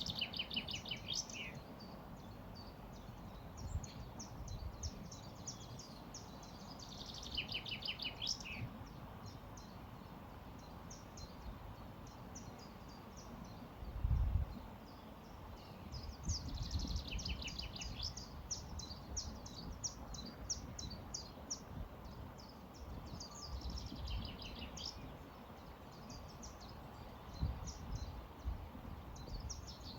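A songbird repeating a fast trill of rapid notes that falls in pitch, a phrase every seven or eight seconds, with other birds chirping between, over a steady low rush of a flowing river. A brief low rumble about halfway through.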